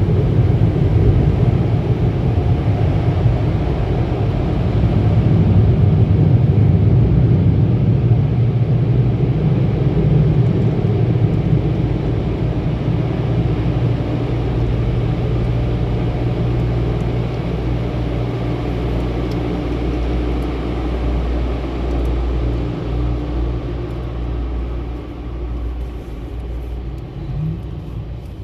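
Steady low rumble of car-wash tunnel machinery and the car, with a constant low hum, slowly getting quieter toward the end.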